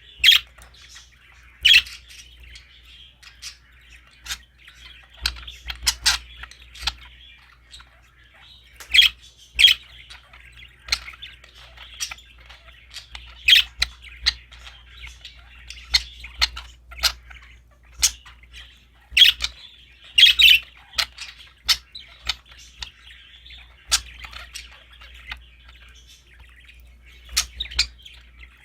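Budgerigars chattering in a continuous warble, broken by frequent sharp, loud chirps and squawks.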